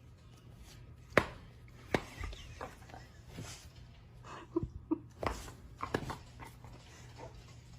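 A dog's small sounds: several sharp clicks and taps, loudest about a second in, and two short pitched squeaks a little past halfway.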